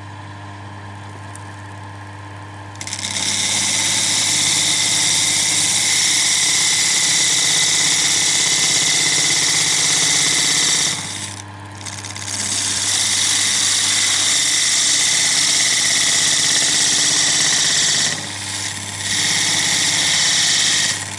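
Wood lathe motor running with a steady hum, and from about three seconds in a skew chisel cutting into the spinning segmented wood blank with a loud hissing scrape. The cut eases off briefly twice and then resumes.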